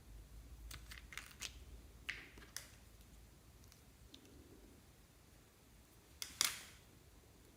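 Sharp clicks and pops from slime and makeup being handled: a quick run of clicks in the first second and a half, two more a little after two seconds, and a louder double snap about six seconds in.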